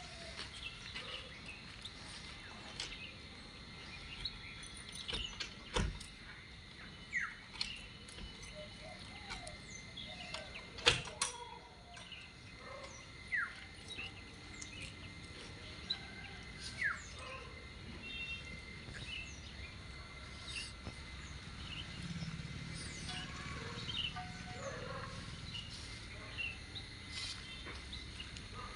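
Outdoor ambience: birds calling in short, falling chirps every few seconds over a steady high whine, with a few sharp clicks, the loudest about eleven seconds in. No machine is heard running.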